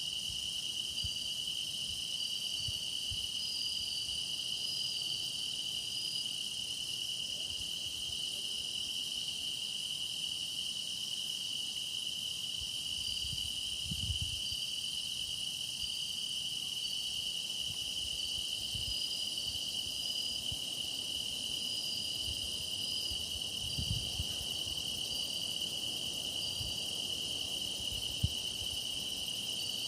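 A dense chorus of grass insects trilling steadily at a high pitch, with a second, higher trill fading in and out above it. A few soft low thuds come through faintly, about halfway in and near the end.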